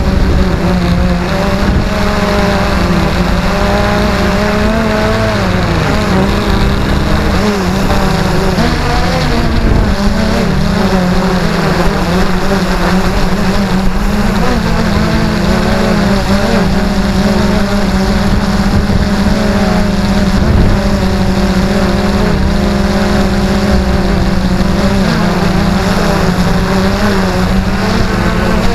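XK Detect X380 quadcopter's motors and propellers droning steadily, the pitch wavering up and down as they hold the drone in strong wind.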